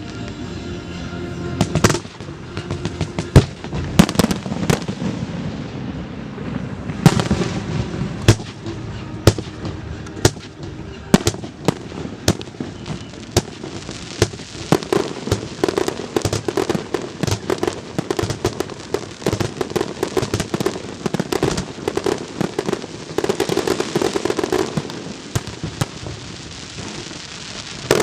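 Fireworks show: a string of sharp bangs and pops, becoming dense, rapid crackling from about halfway through.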